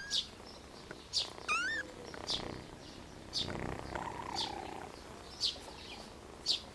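Tiny ginger kitten meowing in short rising-and-falling cries: one at the start, another about a second and a half in, and a longer one near the middle. Short high chirps repeat about once a second behind them.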